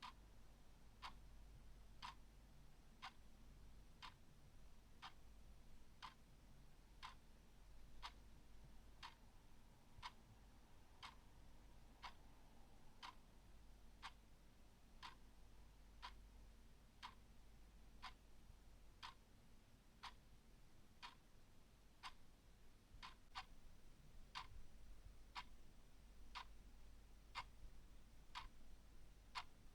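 Clock ticking steadily at about one tick a second, with a few ticks falling closer together in the latter part.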